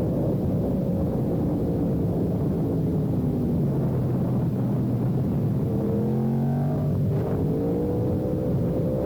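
Sport motorcycle engine under way. The revs fall over the first few seconds, then climb again from about halfway, with a short dip about seven seconds in, like a gear change.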